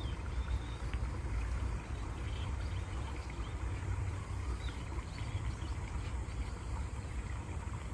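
Steady rush of flowing stream water with a deep low rumble, and faint short bird chirps now and then above it.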